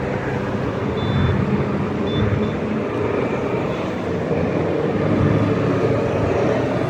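Engines of many motorcycles running together in slow traffic: a steady roar with a low throb, swelling slightly in the second half.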